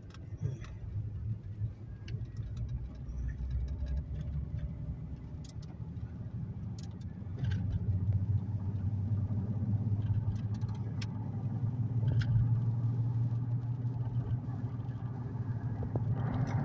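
Car running on the road: a steady low engine and road hum that grows louder about halfway through, with a few faint scattered ticks.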